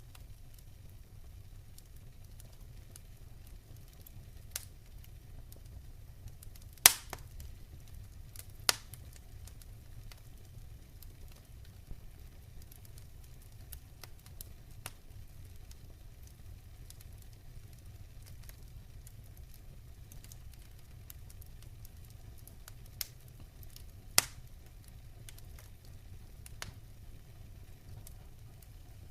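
Wood fire in a fireplace crackling, with scattered sharp pops (the loudest about seven seconds in, again just after, and near the end) over a steady low rumble.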